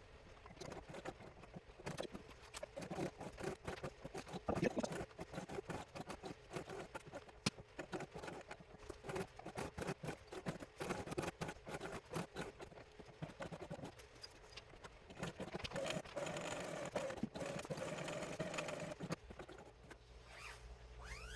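Sewing machine fitted with a zipper foot stitching zipper tape onto nylon hammock fabric: a dense run of rapid needle clicks, with a steadier motor hum for a few seconds near the end.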